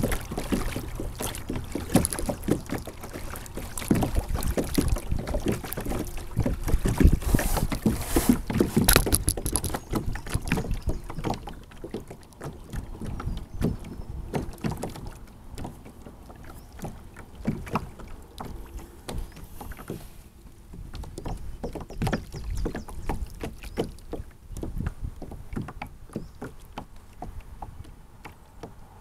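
Water splashing, dripping and lapping against a sit-on-top kayak's hull, picked up by a camera mounted on the kayak. The splashing is busier and louder for the first ten seconds or so, then thins out to scattered drips and lapping.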